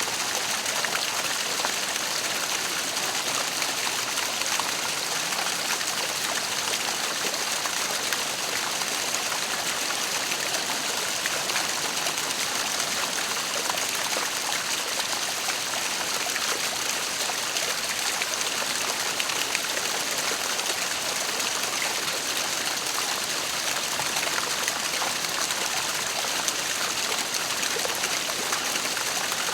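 Waterfall: falling water splashing and rushing in a steady, unbroken hiss.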